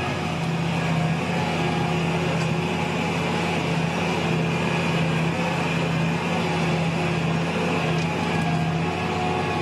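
John Deere 8360R tractor's diesel engine running steadily under load while pulling a nine-furrow plough, a constant low hum with no change in pitch.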